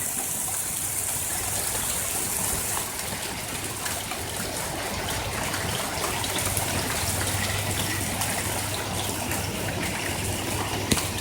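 Heavy hail falling steadily: a dense, even hiss of countless small impacts, with a sharp click near the end.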